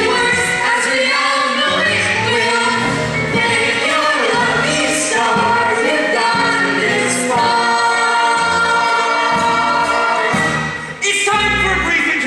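A musical-theatre song performed live on stage: a group of voices singing together in long, held notes over instrumental accompaniment.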